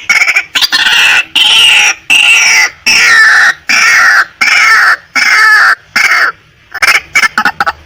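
Female white-breasted waterhen calling: a run of about eight loud, harsh calls, each about half a second long and falling in pitch, then a few quick short notes near the end.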